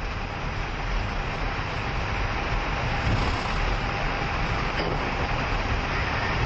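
Jet airliner's engines and airflow heard inside the cockpit as it begins the takeoff roll: a steady broad noise with a low rumble, growing a little louder in the first second.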